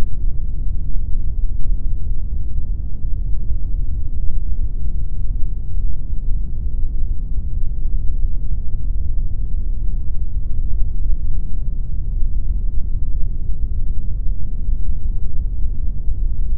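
Steady synthetic pink noise: an even, unchanging hiss, weighted heavily toward the low end.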